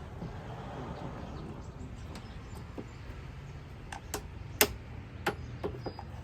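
Hand cutters snipping and clicking in a car's engine bay, with about six sharp snaps in the second half. The loudest snap comes about four and a half seconds in.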